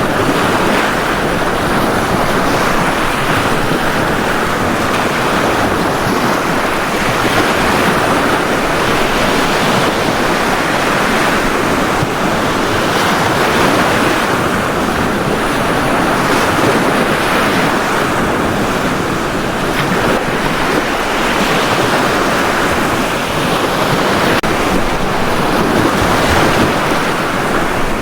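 Ocean waves breaking and washing on a beach, a steady wash of surf that swells and eases every few seconds.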